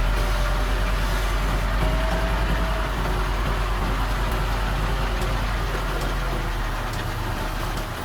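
Diesel engine of heavy earthmoving machinery running steadily, a deep even rumble.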